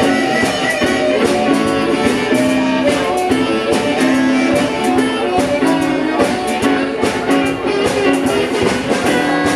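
Live blues played by a guitar and drums duo: guitar notes over a steady drum beat with frequent cymbal and snare hits.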